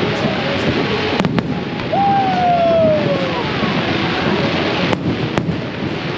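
Aerial fireworks bursting in quick succession: a dense, continuous crackle broken by several sharper bangs. About two seconds in, a single tone falls in pitch for just over a second.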